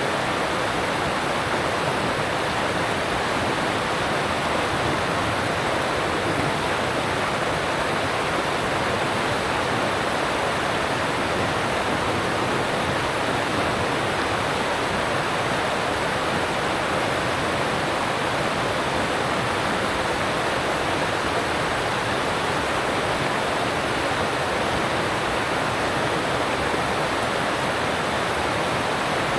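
Alpine stream rushing over rocks: a steady, unbroken roar of water.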